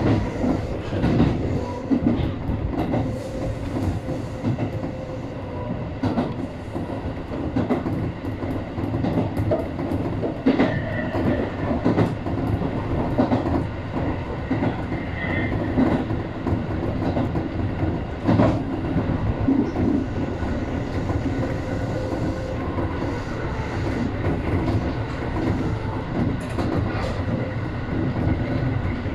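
Tobu 850 series electric train running, heard from inside the front car: a steady rumble of wheels on rails with irregularly spaced clicks from rail joints.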